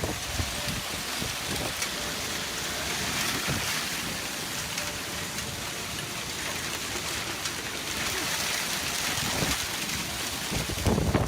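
Heavy rain pouring in strong wind, a steady rushing hiss, with low gusts of wind buffeting the microphone, the strongest near the end.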